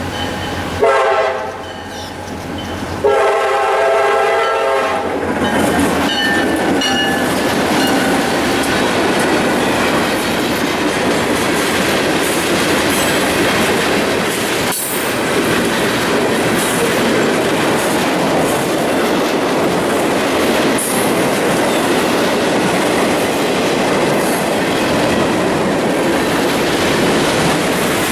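A CSX freight train led by EMD GP40-2 and GP15-1 diesel locomotives sounds its air horn twice, a short blast about a second in and a longer one from about three seconds. The locomotives and a long string of freight cars then roll past with a steady rumble and clickety-clack of wheels over rail joints.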